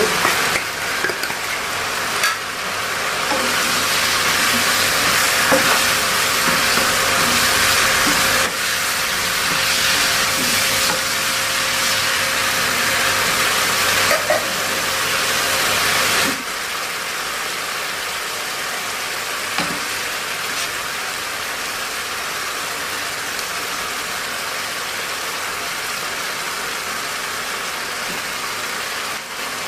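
A spice paste of shallots, garlic, ginger and chilies sizzling steadily as it fries in hot oil, with a few light knocks. The sizzle drops suddenly to a quieter level about halfway through.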